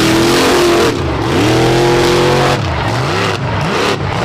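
Mud bog truck's engine revving hard: the pitch climbs, drops about a second in, climbs again, then blips rapidly up and down several times, over a steady rushing noise.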